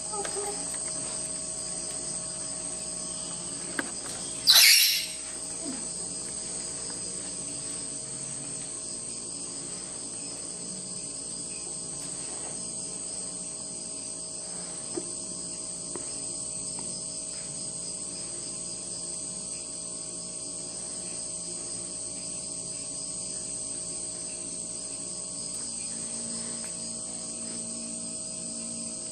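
Crickets chirring steadily in a continuous high-pitched drone. One brief, loud, high-pitched squeak breaks in about five seconds in.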